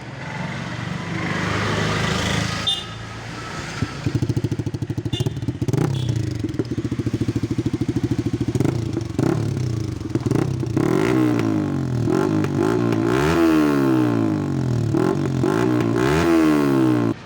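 Yamaha R15 V3's single-cylinder engine running through an aftermarket SC Project exhaust, first at a low steady idle, then revved up and down about five times in quick blips near the end, cutting off suddenly.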